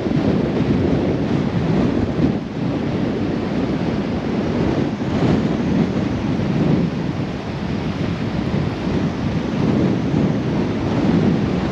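Gale-force storm wind buffeting the microphone as a loud low rumble that surges and eases, with heavy rain.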